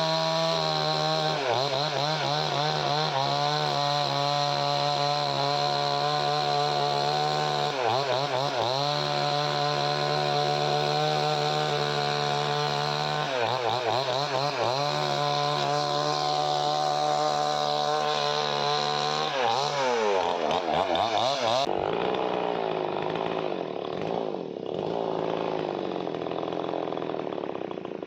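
Chainsaw running at high speed while cutting wood, its pitch dipping and wavering briefly several times. Near the end the sound changes abruptly and turns duller.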